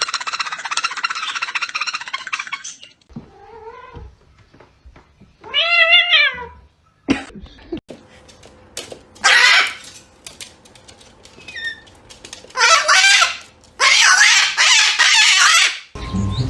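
Animal calls: several separate, drawn-out cries with a wavering pitch and gaps between them. The loudest comes about six seconds in, and a long one runs near the end.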